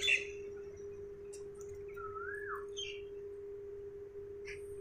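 Birds calling: a few short chirps and one rising-then-falling whistled call about two seconds in, over a steady humming tone.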